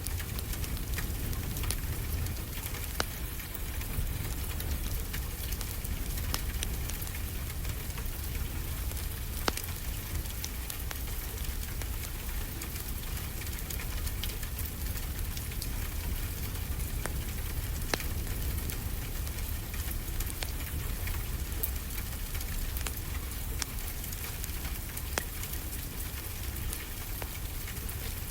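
Steady rain falling, with a wood fire crackling over it: scattered sharp pops a few seconds apart above a constant hiss and low rumble.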